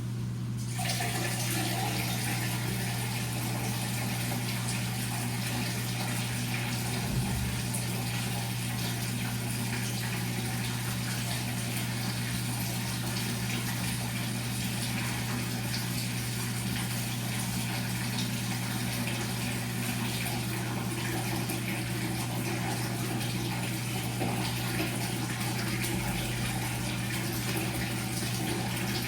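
Washing machine running: a steady low motor hum with water rushing through the machine, the water starting about a second in and continuing evenly.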